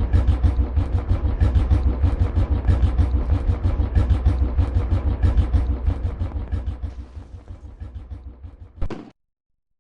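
A tractor engine running with a rapid, regular low thudding that fades over the last few seconds. Near the end the sound cuts off abruptly to silence.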